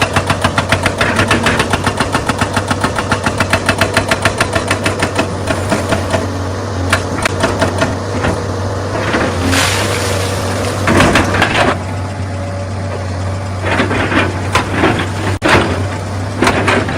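Excavator's hydraulic rock breaker pounding stone in a rapid, even rhythm of a few blows a second, stopping about five seconds in. The diesel engine keeps running, with several short crashes and scrapes of rock after that.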